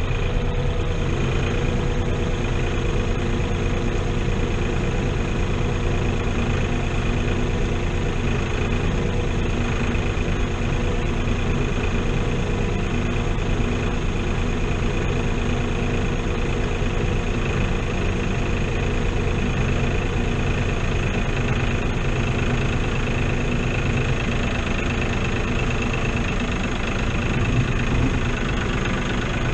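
New Holland TN70 tractor's diesel engine idling steadily.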